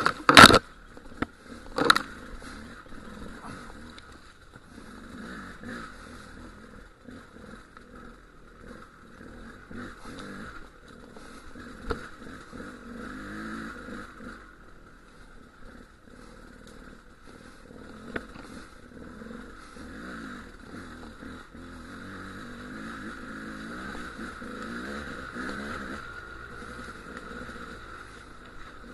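Dual-sport motorcycle engine running on a rough lava-rock trail, its note rising and falling with the throttle. Loud sharp knocks come in the first two seconds, with single knocks about twelve and eighteen seconds in.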